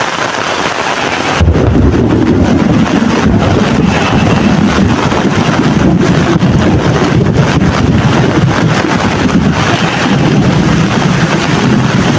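Heavy rain falling. About a second and a half in, a loud low rumble comes in suddenly and holds, covering much of the rain's hiss.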